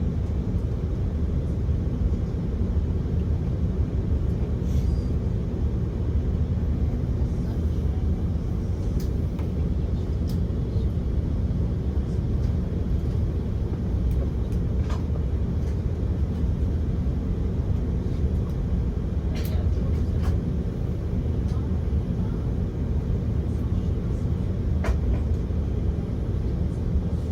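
Cabin noise inside an Airbus A330-300 on the ground after landing: a steady low rumble of the idling engines and the airframe rolling on the taxiway, with a few faint clicks and knocks.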